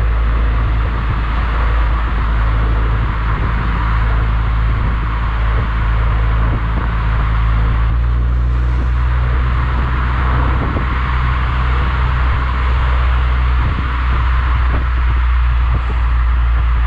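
Mazda MX-5 NC's 1.8-litre four-cylinder engine running steadily through an IL Motorsport aftermarket exhaust, a constant low drone with a slight shift in tone about halfway through.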